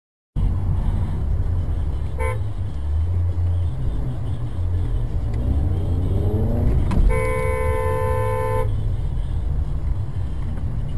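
Car horn honking, a short toot about two seconds in and a long blast of about a second and a half later on, over steady low road and engine rumble from inside a moving car. Just before the long blast, a rising whine sweeps up in pitch.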